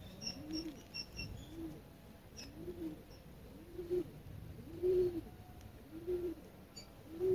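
A bird cooing: a run of short coos that rise and fall, about one a second and getting louder toward the end. A few faint high bird chirps come in the first second.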